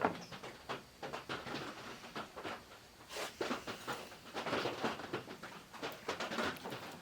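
Irregular clicks, taps and rustles of hands handling and repositioning a vintage 8-track player on a workbench.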